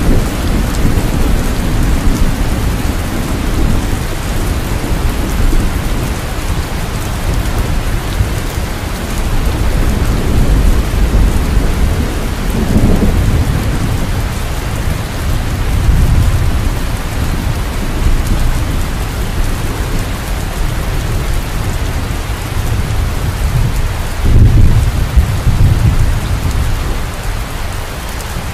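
Steady rain falling, with low thunder rumbling in slow swells, the strongest near the end.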